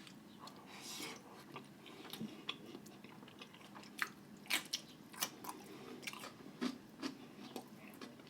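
Close-miked chewing of food with wet mouth smacking and a series of short, sharp crunchy clicks, the clicks coming thicker about halfway through.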